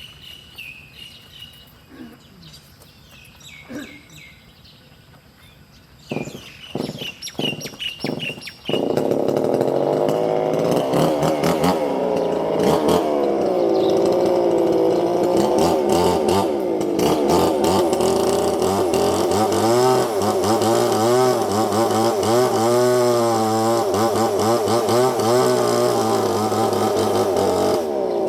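Faint chirps of small birds, then a few sharp knocks about six seconds in. About nine seconds in, a loud small engine comes in suddenly and keeps running, its pitch wavering up and down.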